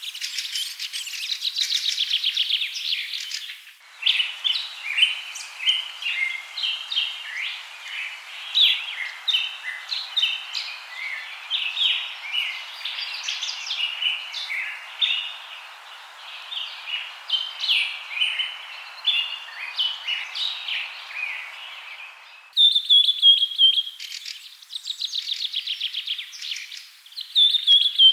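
Many birds chirping and trilling in a busy chorus, some calls given as rapid ticking trills, over a steady hiss of background. The soundscape changes abruptly twice, about 4 seconds in and again near the end, as if separate recordings were joined.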